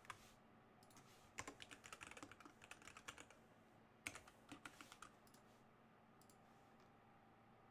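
Faint typing on a computer keyboard: two short runs of quick keystrokes, the second briefer, then stillness.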